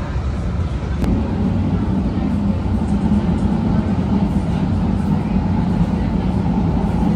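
Type 8 Breda light-rail trolley running between stations, heard from inside the car: a steady hum with wheel and track rumble, and a single sharp click about a second in.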